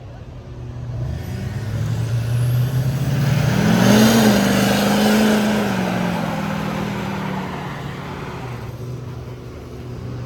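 A truck drives past: its engine climbs in pitch as it speeds up and grows loudest about four seconds in, then fades as it moves away. Underneath, another engine idles steadily.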